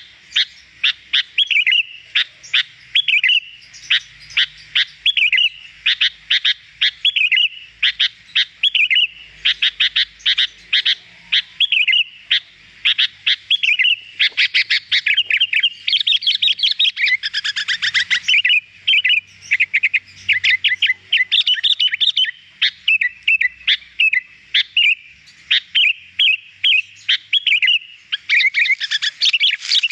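Sooty-headed bulbul (kutilang) singing without pause: a fast stream of short chirps and warbled phrases, repeated again and again with brief gaps.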